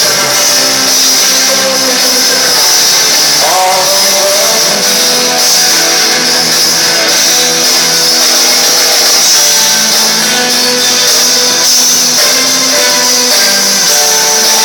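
Live rock band playing in a concert hall, with guitars prominent, recorded from the audience with poor, harsh sound quality.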